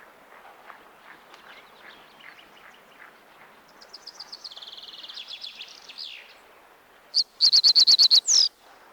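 Reed bunting singing in a reedbed. A fainter rapid trill of notes comes about four seconds in, then near the end a loud, short song: a run of quick repeated notes ending in a slurred flourish.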